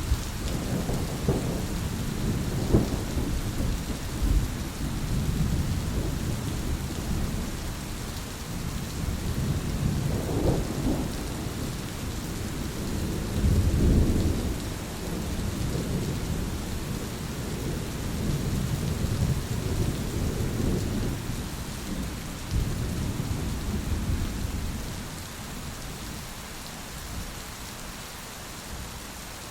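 Steady rain with rolling thunder: low rumbles swell and fade several times, the loudest about halfway through, growing quieter near the end.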